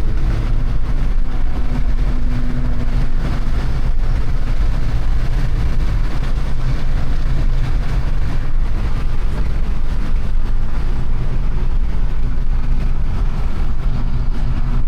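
Car engines running steadily in heavy meet traffic, a loud continuous low drone with no sharp revs or bangs.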